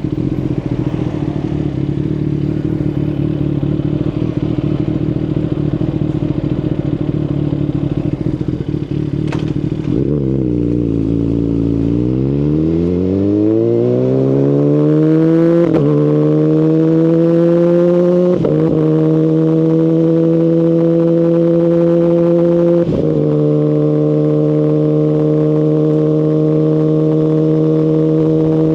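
2019 Kawasaki Ninja ZX-10RR inline-four through an Akrapovic Evolution Line full carbon exhaust, running steadily at low revs, then climbing in pitch as the bike accelerates. Three short breaks for upshifts follow, after which the engine holds a steady note at cruising speed.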